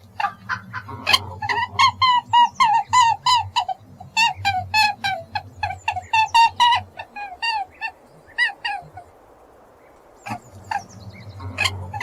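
Rabbit squeaking in quick runs of short, high squeaks, about three or four a second, over a low hum. The squeaks pause for about a second near the end, then start again.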